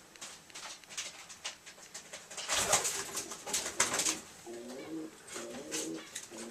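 Pet rat chewing and smacking on Swiss cheese: quick, soft, wet clicks, with a louder rustling stretch about two and a half seconds in. A low cooing sound of short stepped notes comes in after about four and a half seconds.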